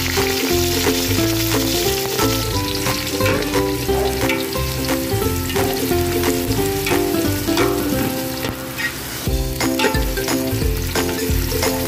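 Chopped garlic and sliced onion sizzling in hot oil in a metal pan, with a spatula stirring and scraping through them in repeated short strokes. Background music with a melody plays underneath.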